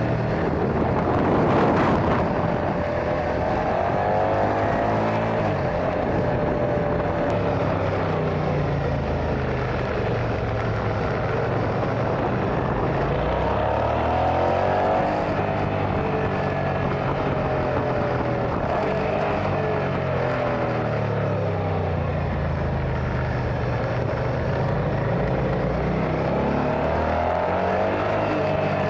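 Motorcycle engine running on the road, its pitch rising and falling again and again as it pulls through the gears, over steady wind noise. There is a brief louder whoosh about two seconds in.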